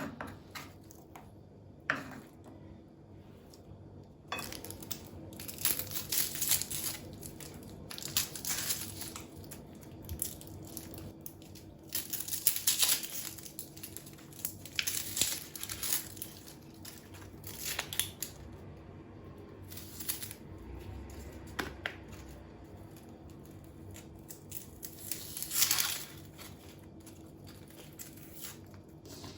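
Crinkling and rustling handling sounds in irregular bursts, busiest through the middle and returning briefly near the end, over a faint steady hum.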